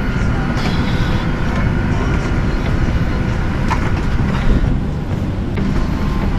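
Steady low rumbling hum inside an airliner cabin, with a few faint knocks.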